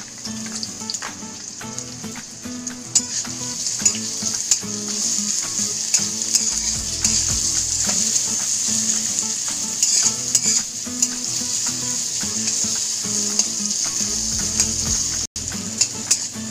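Diced capsicum sizzling steadily in hot oil in a kadhai while it is stirred, with repeated short scrapes and taps of the spatula against the pan.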